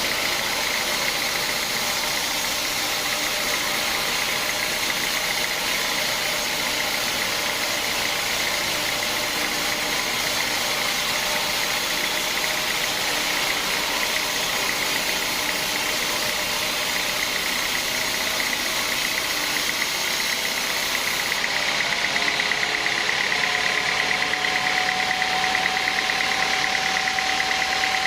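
Sawmill machinery running steadily: a continuous mechanical din with a high whine. About two-thirds of the way through, a second tone rises slightly in pitch and the noise grows a little louder.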